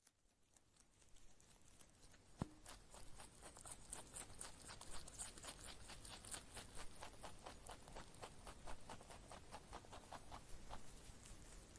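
Faint, quick, irregular clicking and crackling of a group of baby rabbits nibbling and shuffling in dry straw, with one sharper knock about two and a half seconds in.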